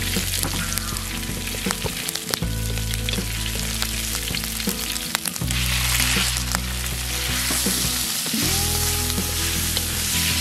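Minced garlic sizzling in hot oil in a steel wok, stirred with wooden chopsticks that click against the pan. About five and a half seconds in, minced pork goes into the wok and the sizzling gets louder.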